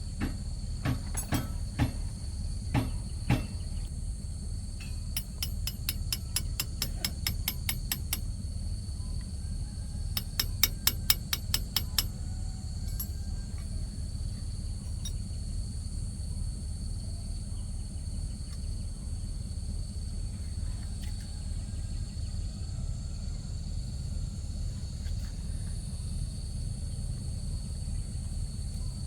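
Hammer blows: a few single knocks, then two quick runs of light taps at about six a second, the second run louder. Under them run a steady low hum and a constant high whine.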